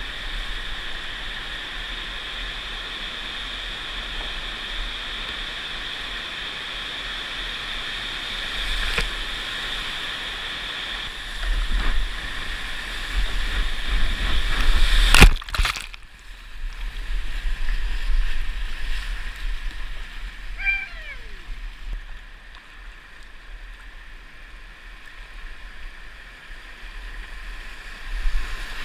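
Whitewater rapids of a creek running high at about 450 cfs, a steady rushing hiss. About twelve seconds in it turns to heavier rumbling and splashing that ends in a sharp knock, and the water then sounds quieter, with a short falling squeal about twenty seconds in.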